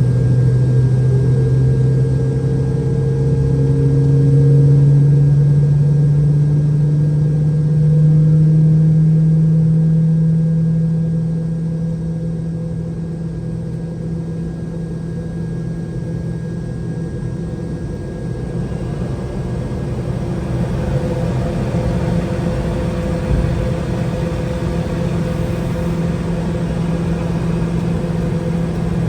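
Boeing 717-200's rear-mounted Rolls-Royce BR715 turbofan engine heard from inside the cabin during engine start: a steady low hum that rises slowly in pitch over the first ten seconds, eases off, then turns into a rougher, slightly louder even rumble.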